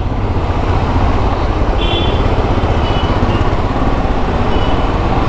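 Royal Enfield Himalayan's single-cylinder engine, fitted with a PoweRage aftermarket exhaust, running steadily under way on a test ride, mixed with steady wind rush.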